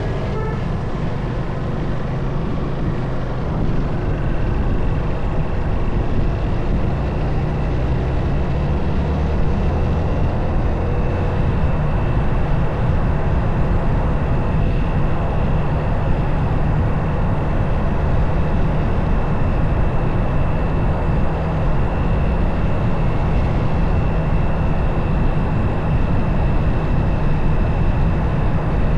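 Motorcycle riding along at a steady pace: the engine running under a dense low rumble from the ride.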